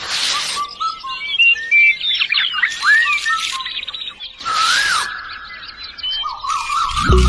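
Birds chirping and calling in short rising and falling whistles, broken by a few brief harsh squawks.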